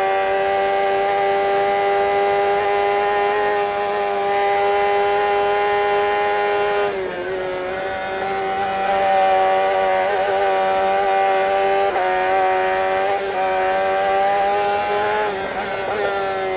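Racing motorcycle engine held at high revs at full throttle, with a brief dip and recovery in pitch about seven seconds in, a few smaller wobbles, and the revs falling near the end.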